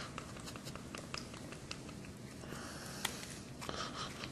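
Faint, irregular small clicks and soft rubbing as a squeeze bottle of sparkle body coating is shaken and handled, with one sharper click about three seconds in.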